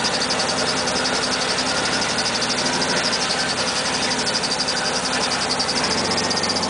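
Car engine idling with the automatic transmission in Drive and the brake held, picked up close to the underside of the car. The owner suspects a transmission noise that the engine sound drowns out. A rapid, high-pitched pulsing chirp runs steadily over the engine.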